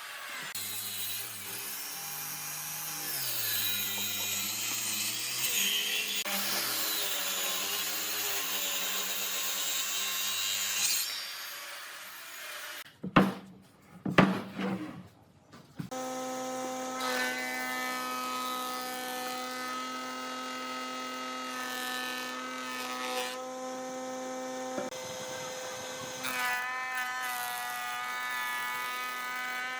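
Power tools working solid wood: a motor cutting or sanding with its pitch shifting under load, then a few sharp loud knocks about halfway through, then a motor running at a steady whine.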